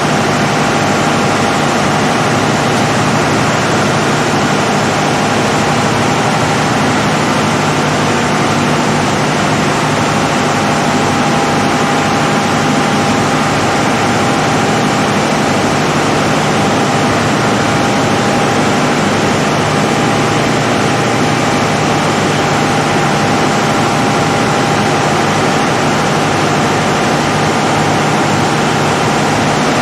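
Caterpillar 3516B V16 diesel generator set running at a steady speed: a loud, even drone with a constant low hum and a steady higher tone, unchanging throughout.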